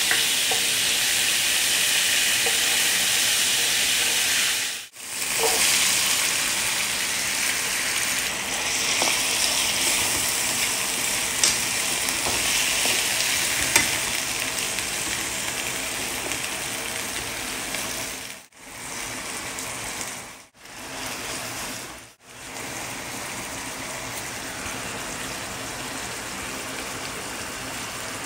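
Hot oil sizzling in a nonstick frying pan, then red beans frying in it as they are stirred, a steady loud sizzle with a couple of sharp clicks around the middle. The sizzle cuts out for a moment several times and is quieter over the last third.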